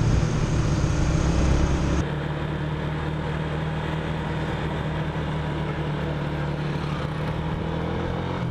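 Motorcycle engine running at road speed with wind noise on the camera. About two seconds in the sound cuts abruptly to a quieter, steady drone of the Yamaha Sniper 150's single-cylinder engine cruising.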